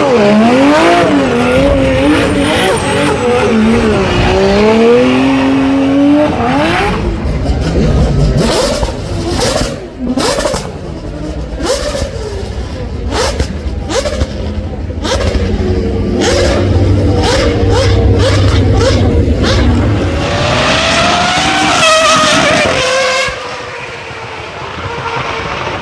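Racing car engine revving, its pitch swinging up and down several times. In the middle come sharp cracks about once a second over a low engine note, then the engine climbs steadily in pitch as it accelerates.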